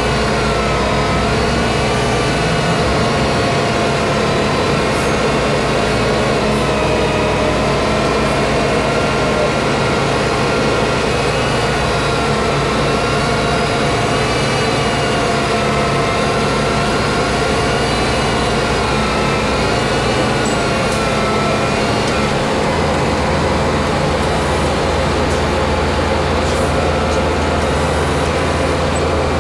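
Diesel engine of an old winch truck running steadily, its pitch drifting slightly up and down, with a change in the deep low drone about three quarters of the way through.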